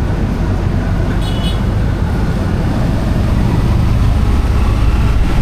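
Steady low rumble of a moving vehicle, with a brief high chirp about a second in.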